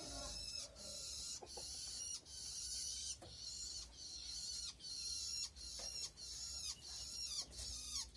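White-eye (pleci) nestlings begging, a string of high-pitched squeaky calls in short bursts that follow one another steadily, sometimes ending in a quick falling note: the chicks calling for food at feeding time.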